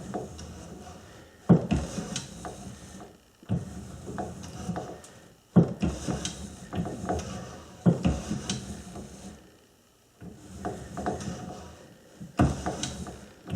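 A lathe tool bit being worked in and out of a pulley bore like a shaper to shave a 3/16-inch keyway: a run of scraping cutting strokes about every two seconds, each starting with a sharp scrape.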